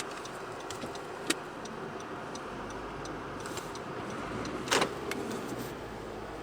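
Car running steadily as it is driven out through snow, with a sharp click about a second in and a louder knock near five seconds.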